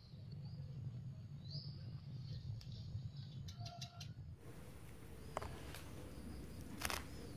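Small birds chirping and calling over a steady low rumble. A single sharp snap sounds near the end.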